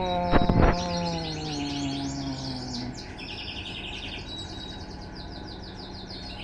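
Electrolux LTE12 washing machine's motor winding down, a whine that falls steadily in pitch over the first three seconds as the drum slows, with a couple of sharp clicks just under a second in. Birds chirp throughout.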